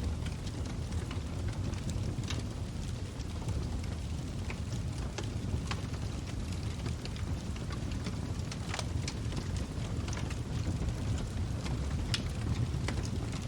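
Wood fire burning in a fireplace: a steady low rumble with irregular crackles and pops from the burning logs, a louder pop at about nine seconds and another near the end.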